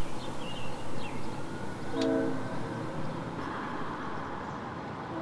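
A freight train's diesel locomotive horn gives one short blast about two seconds in, over the steady noise of the train working up the grade.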